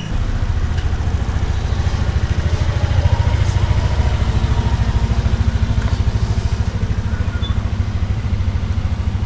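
Car engine idling with a steady, even low pulse, starting just after a click.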